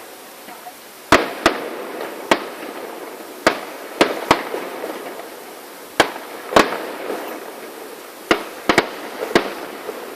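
Fireworks bursting: a string of sharp bangs at uneven intervals, some in quick pairs, each followed by a short crackle.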